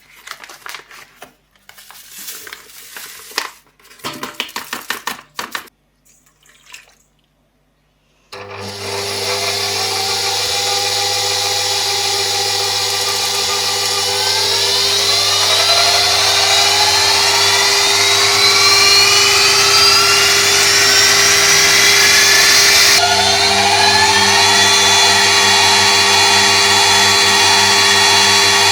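A few seconds of clattering knocks, then a small electric kitchen appliance motor starts and runs steadily and loudly, with a rising whine and a shift in tone about three-quarters of the way through.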